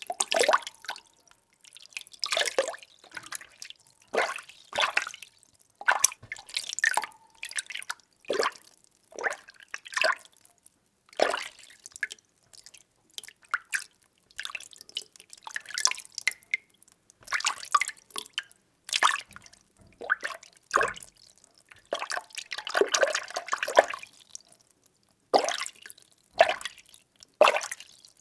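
Water being stirred in a container: short sloshing swishes about once a second, with a longer swirl a little after the middle.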